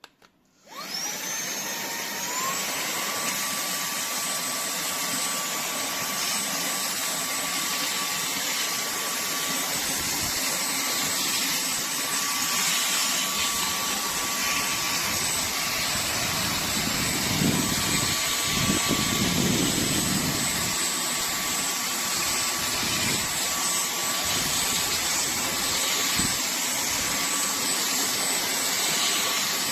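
TANYO cordless handheld vacuum cleaner switched on, its motor whine rising in pitch in two steps over the first couple of seconds, then running steadily at high speed. The sound shifts and roughens around the middle, as when the nozzle meets a surface.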